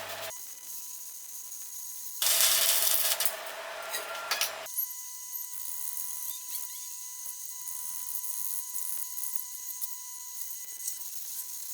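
Stick welding with a 3.25 mm rutile electrode on thin square steel tubing: the arc crackles and hisses over a low mains hum. It breaks off just after the start, strikes again about two seconds in for a couple of seconds, then stops. After that come faint scattered ticks and a thin hiss.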